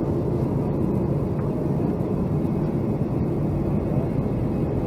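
Steady rumble of a Boeing 757-200 airliner heard from inside the passenger cabin: engine and airflow noise, even in level.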